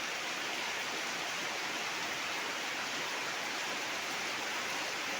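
Rain falling steadily: an even hiss with no single drops or changes standing out.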